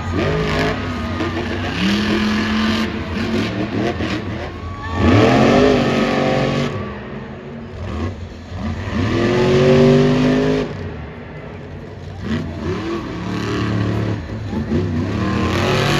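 Monster truck engines running hard on the track, revving up steeply twice, about five seconds in and again about nine seconds in. These are blown, alcohol-burning racing engines of about 1,500 horsepower.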